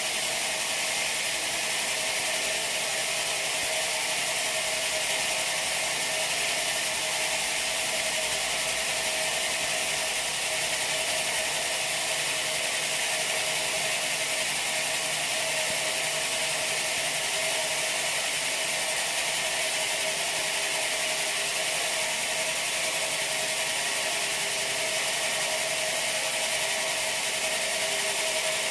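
Sawmill machinery running steadily: an even, dense mechanical hiss with a steady mid-pitched tone, at the same level the whole time.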